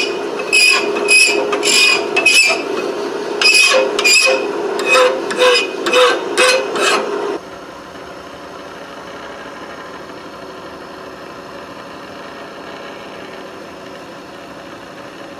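Hammer blows on an anvil while forging a steel punch, about two ringing strikes a second with a brief pause. The blows stop about halfway through, leaving only a faint steady hum.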